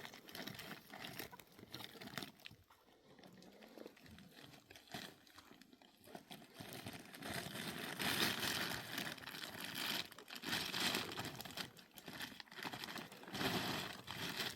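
Irregular rustling and crinkling with many small clicks, growing louder about halfway through.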